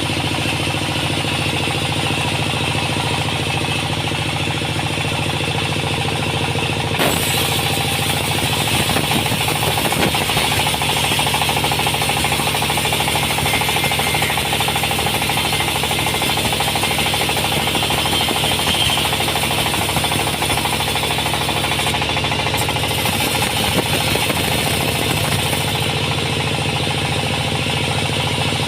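A sawmill's engine runs steadily. From about seven seconds in until near the end, a harsher hissing noise from the saw cutting through wood rides over it.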